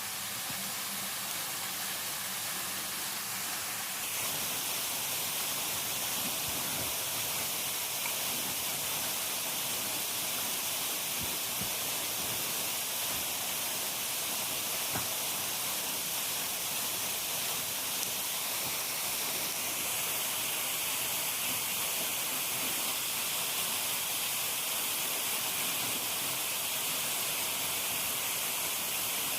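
Steady rushing water noise, an even hiss with no distinct events. Its tone shifts slightly about four seconds in and again about twenty seconds in.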